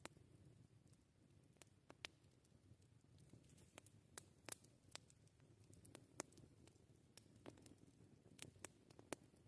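Wood campfire crackling: about a dozen sharp, irregular pops and snaps, the loudest about four and a half seconds in, over a quiet low rumble of the burning fire.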